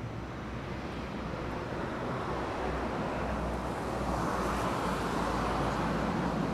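Road traffic noise: a steady low engine hum with the rushing sound of a vehicle growing louder over the last few seconds.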